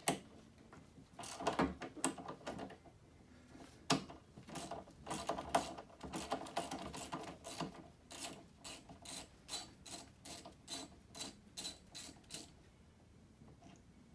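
Hand tools working the float bowl nut off the snowblower's Tecumseh carburetor: irregular clinks and knocks, then a run of evenly spaced clicks, about two a second, that stops about twelve seconds in.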